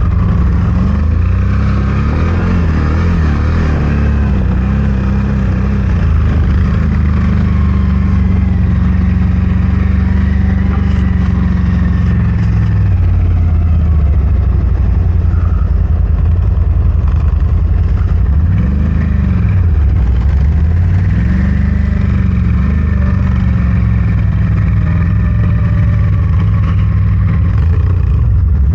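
CFMOTO Gen 3 1000's engine running under load while driving through deep snow. The revs rise and fall, dropping and climbing back a few times midway.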